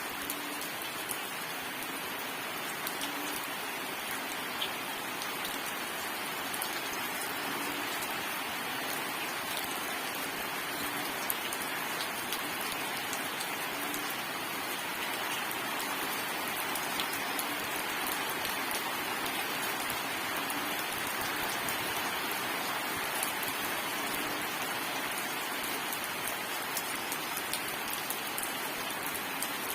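Steady rain falling: an even hiss of rain on a surface, with scattered sharp ticks of single drops.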